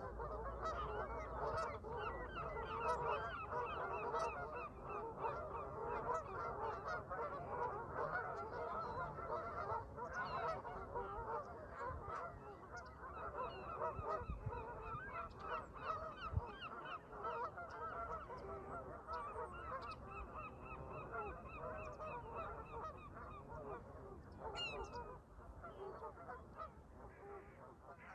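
A flock of Canada geese honking continuously, many calls overlapping. Higher, fast-repeating bird calls come and go over it.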